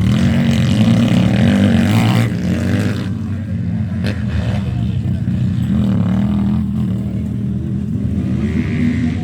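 Motocross motorcycle engines running and revving, pitch rising and falling, loudest over the first two seconds and then steadier.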